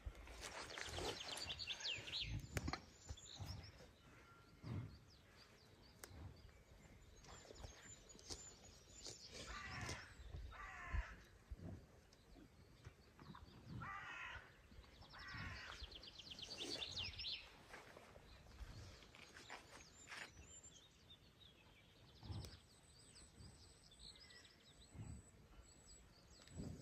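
Birds calling in short, quick-trilled phrases several times over faint outdoor ambience, with a few scattered soft knocks.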